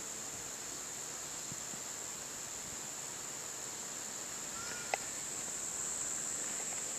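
Insects giving a steady, high continuous buzz, with one short bird chirp about five seconds in.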